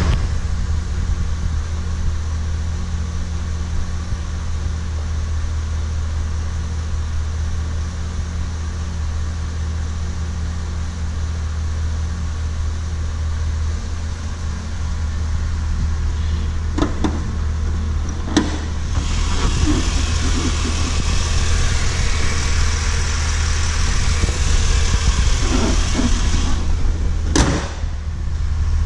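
2004 Chevrolet SSR's 5.3-litre V8 idling steadily. A few sharp clicks come in the second half, and a broad hiss joins the idle for its last third.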